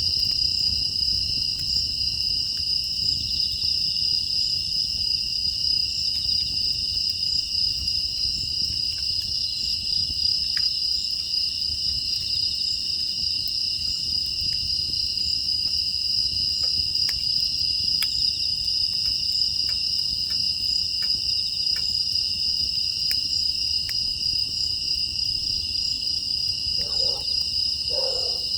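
Steady chorus of crickets and other night insects, with scattered faint crackles from a wood fire. Near the end come three short calls.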